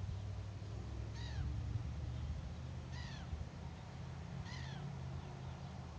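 A bird calling three times, each a short falling call, about one every one and a half to two seconds, over a low steady rumble.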